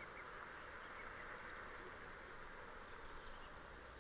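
Faint countryside ambience of wild birds calling in the distance, with a few brief high chirps near the end over a steady background hiss.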